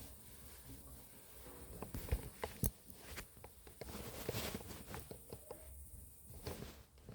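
Faint handling noises in a pause in the lute playing: a few sharp clicks and taps, two of them louder about two seconds in, over soft rustling, with no notes sounding.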